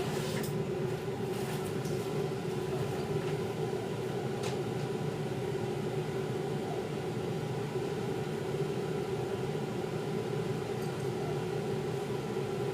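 Steady mechanical hum at an even level, with a faint click about four and a half seconds in.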